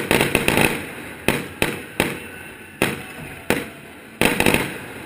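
Fireworks bursting overhead: about a dozen sharp bangs, each trailing off in an echo. The bangs come in a quick cluster at the start, then one at a time about every half second to a second, then another quick cluster near the end.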